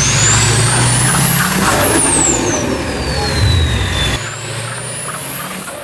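Drag racing vehicle making a pass: the engine runs hard with a high whine that climbs for about two seconds, then falls away. The sound breaks off abruptly about four seconds in, and a second rising-then-falling whine follows.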